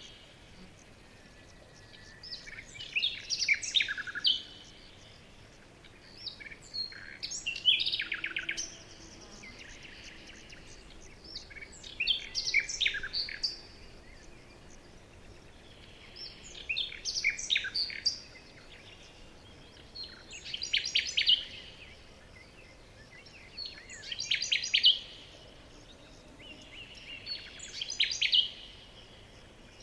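A songbird singing short phrases of rapid high notes, one phrase every four to five seconds, over a faint steady background hiss.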